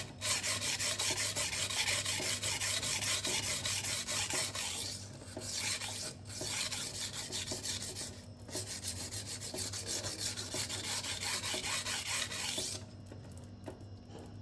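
Steel kitchen knife blade being stroked back and forth on a wet 240-grit silicon carbide sharpening stone, a rapid rhythmic gritty scraping that raises a burr. It breaks off briefly a few times and stops near the end.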